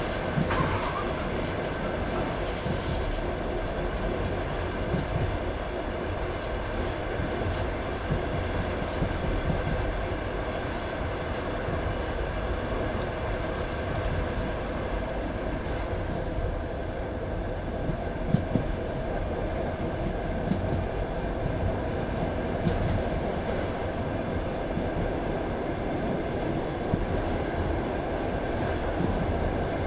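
Passenger train carriage rolling along the track: a steady rumble of wheels on rails, with a few scattered clicks and knocks, heard from inside the carriage.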